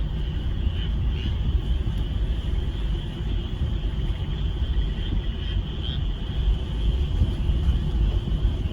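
A chorus of frogs calling together, a steady high band of sound over a loud, steady low rumble.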